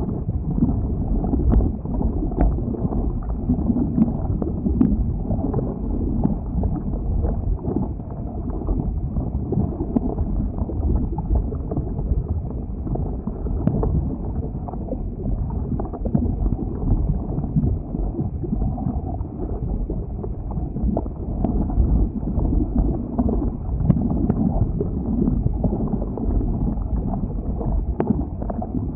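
Flowing lava: a steady low rumble with scattered sharp crackles and ticks throughout.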